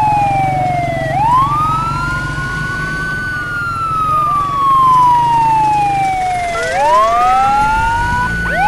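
Police vehicle sirens wailing in a slow rise and fall, roughly one cycle every five to six seconds, with a second siren overlapping near the end. Underneath is the steady rumble of the convoy's pickup truck engines driving past.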